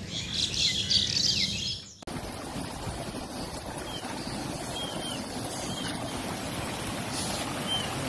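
Birds chirping and calling busily for about two seconds, then a sudden cut to a steady rushing noise with a few faint bird chirps over it.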